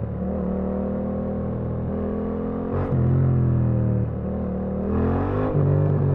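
Yamaha MT-07 parallel-twin engine running while riding, holding a steady note with short dips in revs about three and four seconds in and a rev rise near the end.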